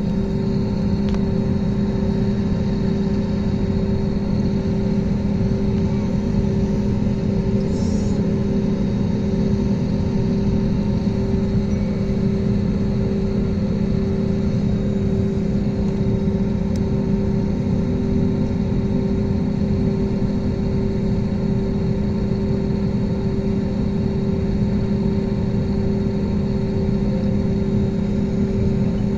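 Jet airliner heard from inside the passenger cabin: a steady engine rumble with a constant low hum.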